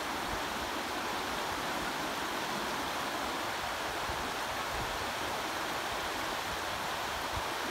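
A river flowing: a steady rush of running water.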